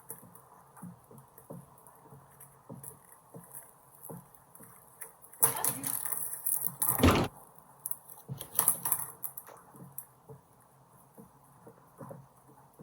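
Small hard objects being handled and knocked about: scattered light taps, a louder clatter starting about five and a half seconds in that ends in a heavy knock, and another brief clatter a little later.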